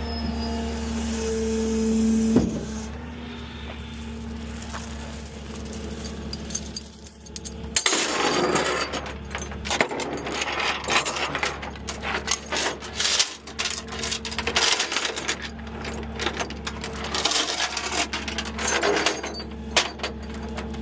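A vehicle engine running with a steady low hum; from about eight seconds in, dense metallic rattling and clinking over it.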